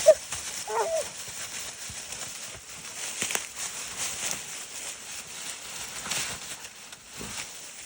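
A hunting dog gives two short yelps in the first second, followed by faint rustling and crackling.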